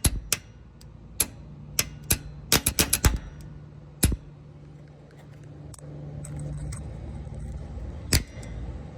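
A run of sharp, irregular clicks and taps for about three seconds, then two single clicks about four and eight seconds in, over a low steady hum.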